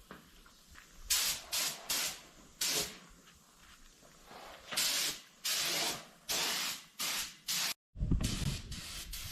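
Compressed-air paint spray gun spraying thinned automotive paint in repeated trigger pulls: a string of short hissing bursts, then longer passes about half a second each. Near the end the hiss carries on over a low rumble.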